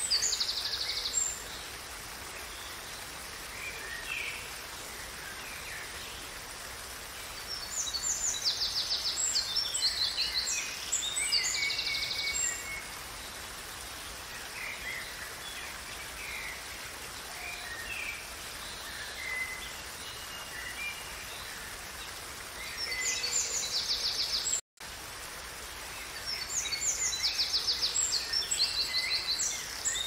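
A songbird singing in bouts of rapid high trills and chirps, several seconds apart, over a steady hiss of flowing water. The sound drops out for a split second about five seconds before the end.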